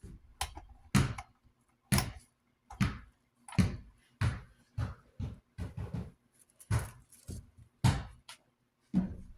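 Irregular series of hard knocks and clicks, roughly one or two a second, from hands working on the oscillation knob and mechanism of a vintage desk fan.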